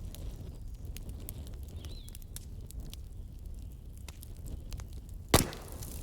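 Wood fire crackling: scattered small snaps over a low rumble, with one loud pop about five seconds in.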